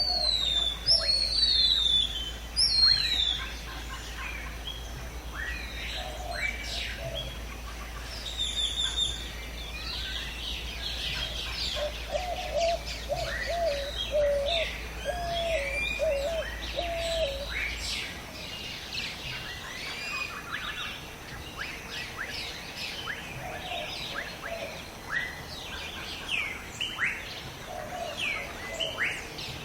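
Many wild birds calling and chirping together in jungle ambience. A few loud falling whistles come near the start, and a lower call repeats about six times in the middle.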